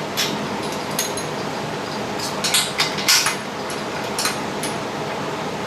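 Scattered metallic clinks and knocks of steel home-gym parts and tools being handled during disassembly, over a steady background hum.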